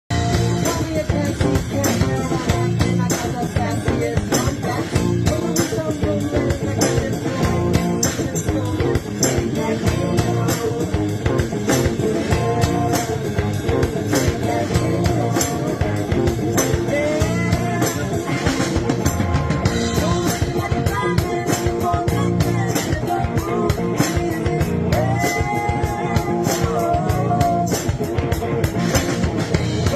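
Live band music with slap bass and drums: a steady, busy beat of sharp percussive hits under a gliding melody line.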